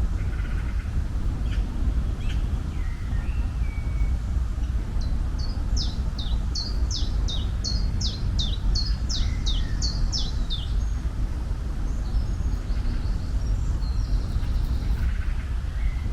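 A songbird singing a run of short, high, sharply falling notes, about two to three a second, for roughly six seconds in the middle, with a few fainter chirps around it. A steady low rumble lies underneath.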